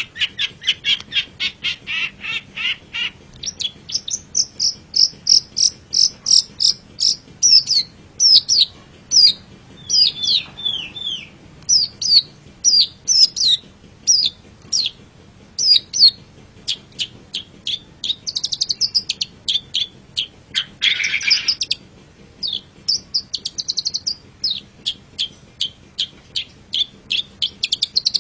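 Long-tailed shrike (cendet) singing a rapid, varied song: fast runs of sharp repeated chips, series of high down-slurred notes, and a short harsh rasping call about 21 seconds in.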